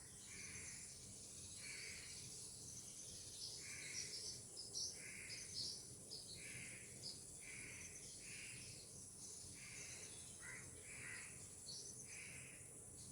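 Birds calling: a soft call repeated roughly once a second, with short higher chirps between, over a steady high insect buzz.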